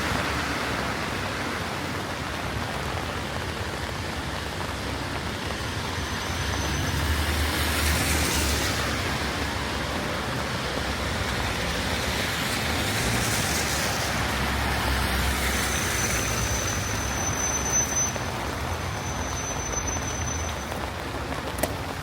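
Steady rain with cars passing on a wet road, the tyre hiss and engine rumble swelling and fading several times. A thin high whistle sounds in the second half, and there are a few sharp clicks near the end.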